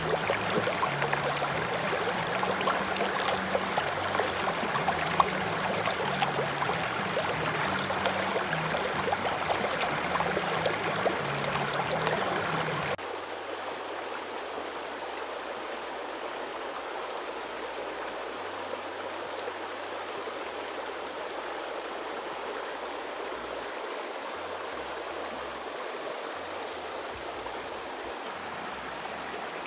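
Creek water running steadily in a continuous rush, louder at first and dropping abruptly to a quieter flow about thirteen seconds in.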